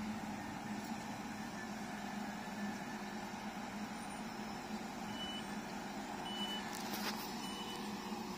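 A Northern Ireland Railways diesel multiple unit runs with a steady hum as it draws in and stops at the platform. About five seconds in, short high door beeps start, repeating roughly once a second, with a sharp click between them near the end.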